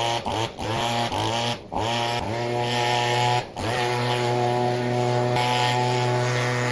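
An engine running, cutting out briefly and climbing back up in pitch about four times in the first few seconds, then holding a steady pitch.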